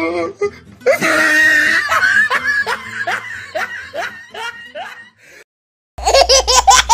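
Dubbed-in laughter sound effect: a long run of 'ha-ha-ha' laughs, each falling in pitch and gradually fading, broken off by a short silence before another loud sound clip starts near the end.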